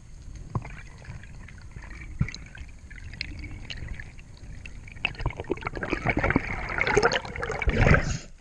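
Water splashing and gurgling with scattered clicks, building up over the last few seconds and cutting off abruptly near the end.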